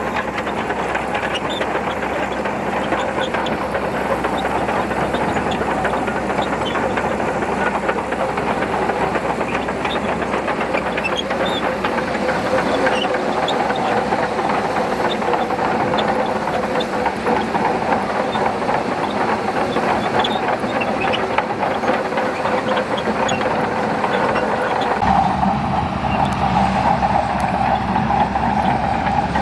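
Shantui bulldozer working: steady diesel engine noise with a continuous clatter of tracks and blade. The sound changes abruptly near the end, where a steady tone drops out.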